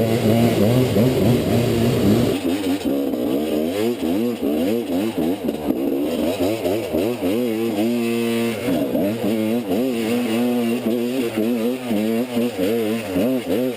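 Enduro motorcycle engine revving up and down over and over as it is ridden off-road, its pitch rising and falling every second or so. The revs hold steady briefly about two-thirds of the way through.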